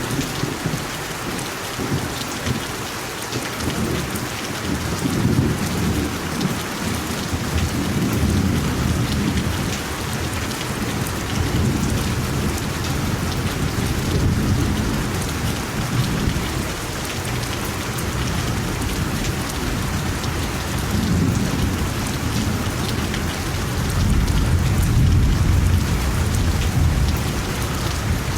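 Steady rain falling, with low rolling thunder that swells and fades several times, loudest a little before the end.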